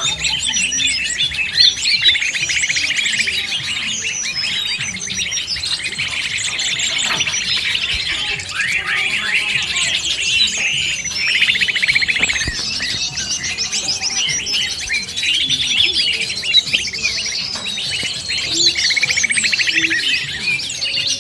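Noisy mixed chorus of many small birds chattering, trilling and calling without pause, combined with green leafbird (cucak ijo) song: a 'burung ribut' lure recording used to draw wild birds in.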